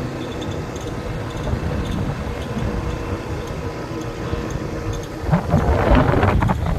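Motorcycle engine running with road and wind noise while riding, growing louder and rougher about five seconds in.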